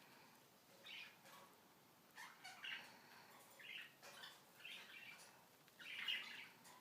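Cockatiel making a series of short, soft sounds at irregular intervals, the loudest near the end.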